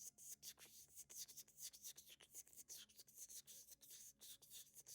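Faint, rapid scratchy rustling made of many short, irregular strokes, several a second.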